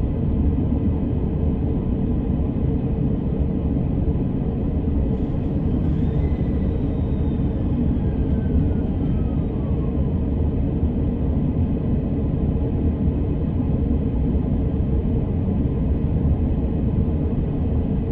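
Electric commuter train running between stations, heard from inside: a steady rumble of wheels on rails. A faint whine falls in pitch from about five to ten seconds in.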